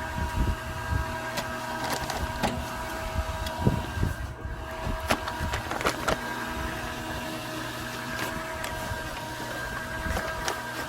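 Small electric gear motor driving the augers of a homemade model asphalt-mix machine, running with a steady whine while it churns a fresh load of asphalt mix. Scattered clicks and scrapes come from the mix grinding inside.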